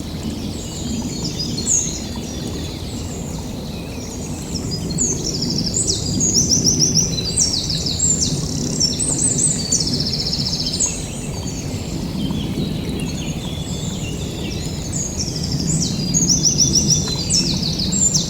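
Songbirds singing in woodland, with many overlapping quick trills and chirps, busiest in the middle and near the end. Under them runs a steady low rushing noise.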